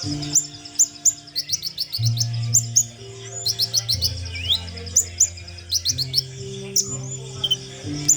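A konin songbird singing busily: quick runs of high, sharp chirps and short trills. Under it is background music with long low notes that change every second or two.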